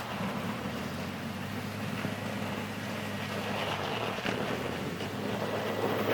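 A vehicle running steadily: a low engine drone under a hiss of road and wind noise.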